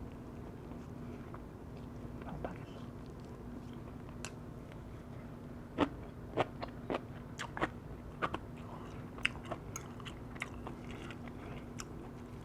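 Close-up chewing of firewood-roasted chicken wrapped in kimchi, with crisp crunching clicks that start about halfway through. A faint steady hum lies underneath.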